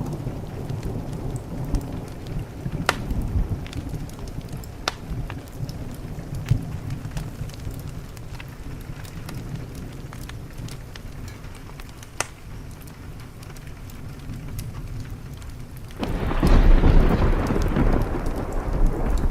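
Steady rain with rolling thunder: a low rumble dies away over the first few seconds, and about 16 seconds in a new, louder thunder rumble breaks in suddenly. Sharp crackles from a wood fire pop now and then throughout.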